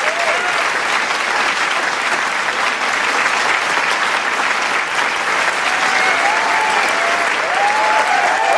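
Large crowd clapping steadily, with scattered cheers and whoops rising over the applause near the end.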